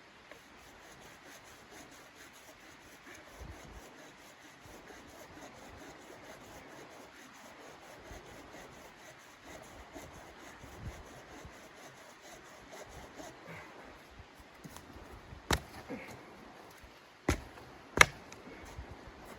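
Faint rustling and handling noise, then three sharp knocks near the end, the last one the loudest.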